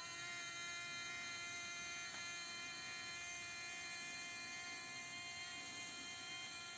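Small electric motor of an RC-converted Bruder Scania crane truck whining steadily as it drives the Liebherr crane arm, with a faint click about two seconds in.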